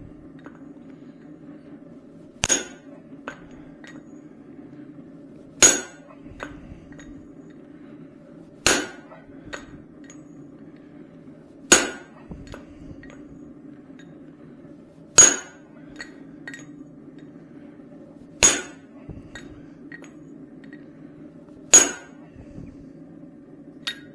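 Heavy hand-hammer blows on a steel punch driven into hot steel to punch out the plug of a hammer-head eye: seven ringing strikes about every three seconds, with light taps between them. A steady low hum runs underneath.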